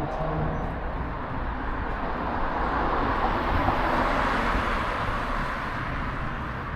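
Road traffic noise: a steady rush of tyres and engines with a low rumble, swelling somewhat in the middle and easing off again.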